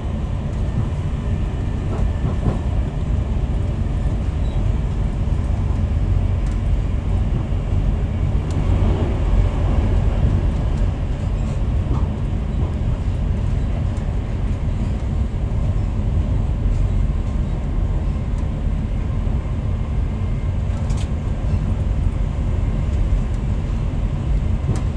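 Running noise inside a Class 68-hauled passenger coach at speed: a steady low rumble of wheels on the track, with a few faint ticks.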